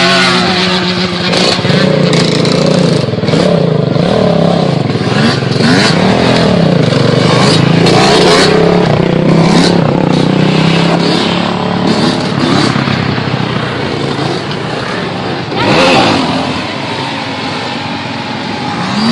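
Motorcycle engines revving and accelerating, the engine note rising and falling again and again, with a louder surge about sixteen seconds in.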